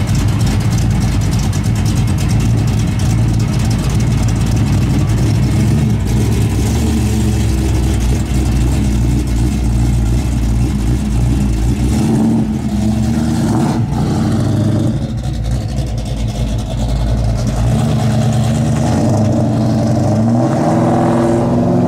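Modified classic muscle car's engine idling loudly through its exhaust as the car creeps forward, with the engine note rising briefly about twelve seconds in and rising again near the end as it accelerates away.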